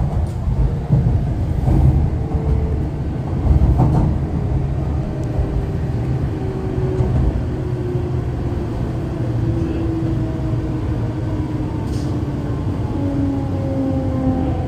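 MTR East Rail Line R-Train electric multiple unit running, with a steady low rumble from the track. Its traction motors give a thin whine that slowly falls in pitch, and there are a few short clicks.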